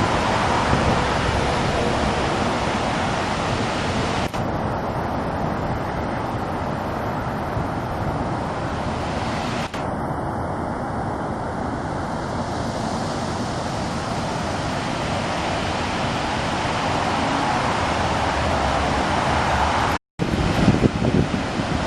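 Steady rushing of falling water from a waterfall, changing abruptly a few times where shots are cut together. Near the end, uneven low bumps of wind on the microphone.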